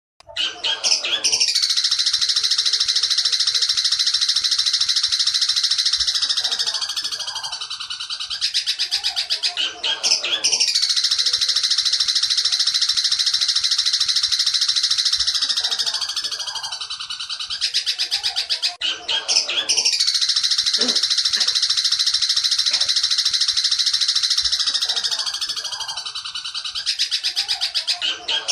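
Long-tailed shrike (cendet) song in the fast 'petir' style, played as a recorded tutor song for training caged birds: a loud, rapid, unbroken high chattering that starts abruptly from silence. It runs in three long phrases of about nine seconds each; each one tails off and the next begins at once.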